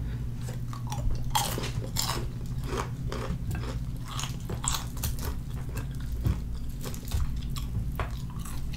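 Close-up eating of fried chicken by hand: irregular crunching of the crispy breading, chewing and wet mouth clicks, with the meat being pulled apart between the fingers.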